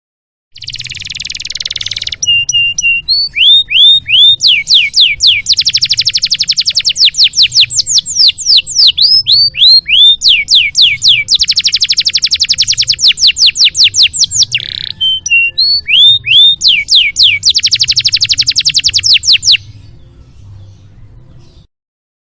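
Canary singing a long, varied song: fast buzzing trills alternate with series of repeated down-slurred whistled notes. The song starts about half a second in and stops sharply near the end, over a faint low hum.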